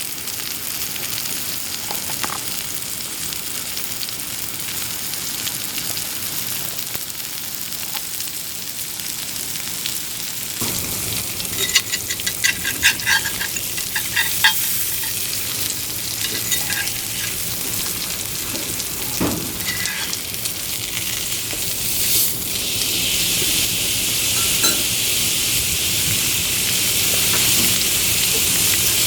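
Thick-cut beef steak sizzling as it fries, a steady hiss of fat and juices. A run of light clicks and clinks comes about halfway through, and the sizzling grows louder and brighter toward the end.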